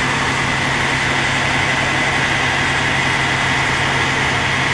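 A vehicle engine idling with a steady, unchanging hum.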